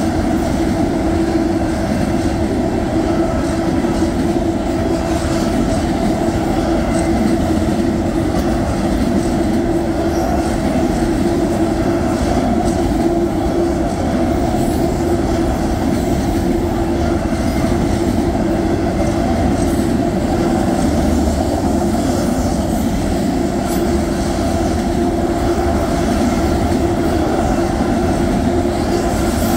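Union Pacific freight train of autorack cars rolling steadily past, its steel wheels running on the rails with a steady droning tone underneath.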